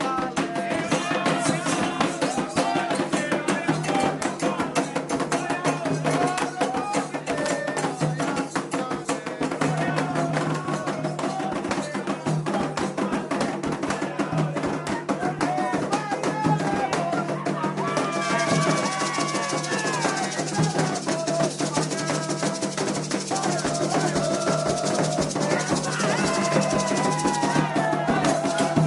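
Candomblé ritual music: fast, continuous hand drumming on atabaque drums under sung chants. A bright hiss joins about two-thirds of the way through and stops shortly before the end.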